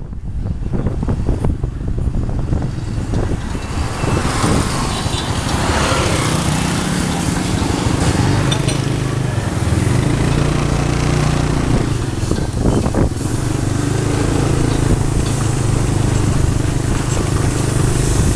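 Motorcycle engine running under way, with road noise rushing past; the engine settles into a steady low hum about six seconds in.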